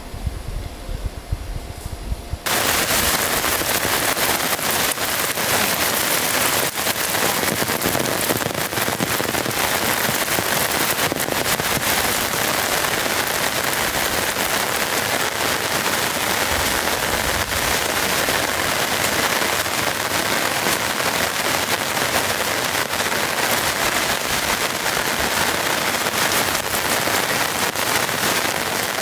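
Heavy rain pelting a rooftop tent, a dense crackling patter of countless drops that cuts in abruptly a couple of seconds in and then holds steady. Before it, only a low rumble.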